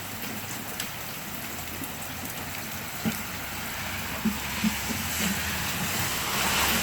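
Heavy rain falling steadily on a street, with a vehicle's low engine rumble and the hiss of tyres through standing water growing louder near the end. A few short knocks come around the middle.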